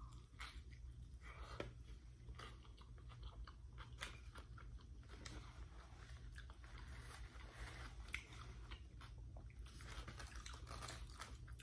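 Faint close-up chewing of a mouthful of chicken burrito: irregular soft wet mouth smacks and small clicks.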